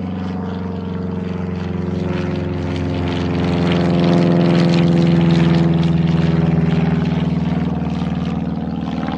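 Propeller airplane engine running with a steady drone, growing louder toward the middle and easing off a little before it cuts off suddenly at the end.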